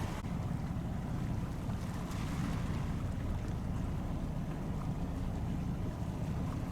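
Steady low rumble of harbour boat engines, with wind buffeting the microphone.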